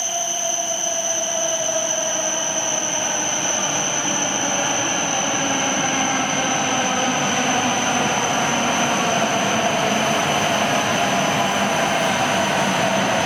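E7 series Shinkansen train pulling into the station: rolling noise with a steady high electrical whine and a slowly drifting lower tone, growing a little louder.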